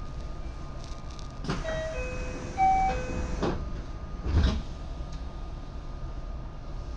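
Inside a JR West 227-series electric train car: steady background noise, a short chime of four stepped notes, and a few knocks and clunks from the car.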